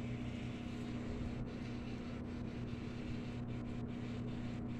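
Microwave oven running, heating a plastic bag of food: a steady low hum with a constant drone.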